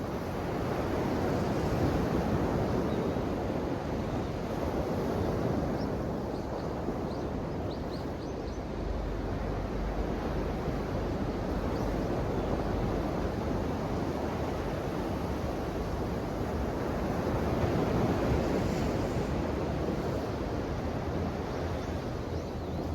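Ocean waves breaking and washing ashore: a continuous rush of surf that swells louder about two seconds in and again near eighteen seconds.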